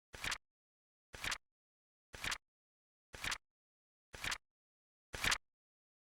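Flip clock sound effect: a short flap-flipping click once a second, six in a row, each a quick double snap with dead silence between. The one near the end is slightly louder.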